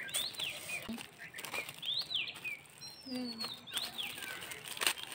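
A songbird singing three times, about two seconds apart, each phrase a quick run of high whistles sweeping up and down, with a few light crinkles of gift-wrapping paper being handled.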